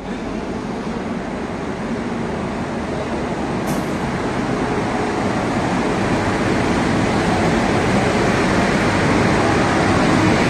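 Indian Railways WAG-9 electric locomotive hauling new LHB coaches into a station, with the steady rumble of a passing train growing gradually louder.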